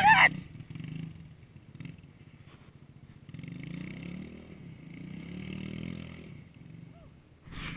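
Small four-stroke pit bike engine running, its pitch rising and falling as the throttle opens and closes, strongest from about three seconds in until about six and a half.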